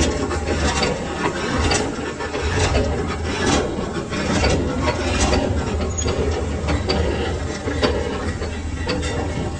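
Machine-shop lathe running with a steady low hum, under many irregular metallic clicks and knocks.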